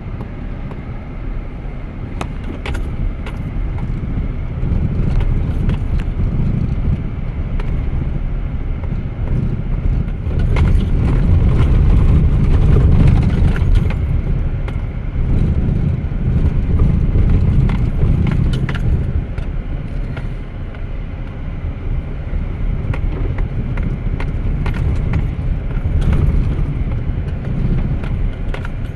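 Truck grinding slowly over a rough dirt track of large, loose rocks: a steady low rumble of engine and tyres that swells and eases as it climbs, with constant rattling and clicks of loose things in the cab as it bounces.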